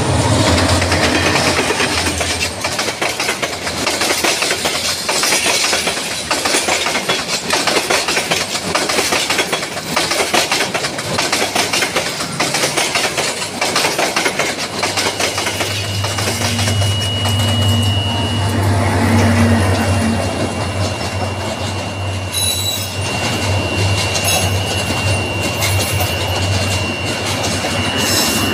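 Diesel-hauled Bangladesh Railway intercity passenger train passing close by, its wheels clacking steadily over the rail joints. From about halfway through, a high, steady wheel squeal rises over the clatter.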